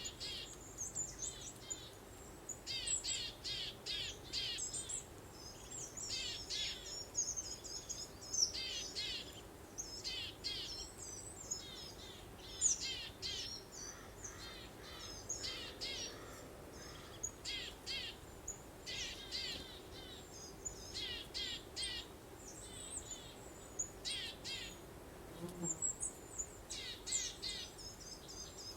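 Several small songbirds chirping and singing, in quick repeated phrases of high notes that come and go throughout, over a faint steady background hiss.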